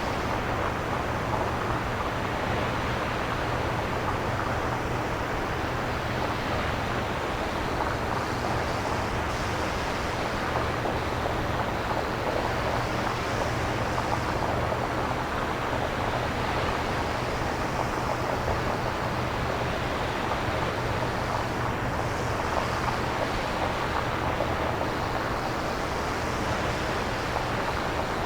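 Synthesized nature ambience: a steady rushing noise, with soft swells in the hiss about every four seconds over a low steady hum.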